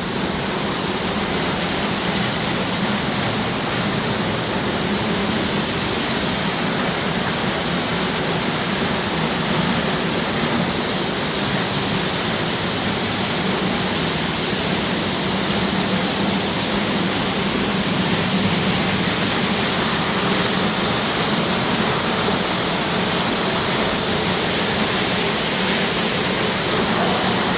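Steady rushing noise of flowing water, even and unbroken throughout.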